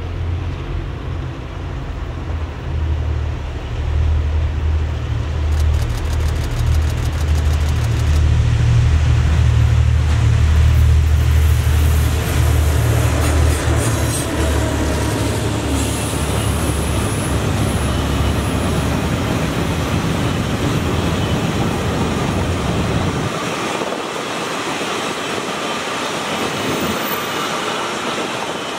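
Double-headed Taiwan Railway diesel locomotives passing close under power, their engines running with a low drone that grows to its loudest near the middle, then a train of freight hopper wagons rolling by with steady wheel-on-rail noise. The engine drone cuts away about three-quarters of the way through, leaving only the wagons running over the rails.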